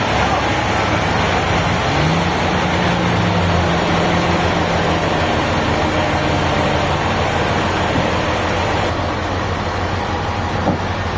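An engine running steadily, its note stepping up slightly about two seconds in, with a brief tick near the end.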